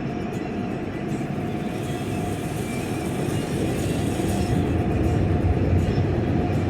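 Automatic car wash machinery heard from inside the car: a steady rumbling wash noise that grows louder about five seconds in.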